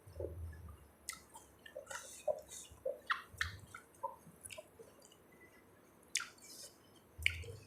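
Close-up chewing and wet mouth sounds of someone eating spicy Thai seafood salad: soft, irregular smacks and clicks with short pauses.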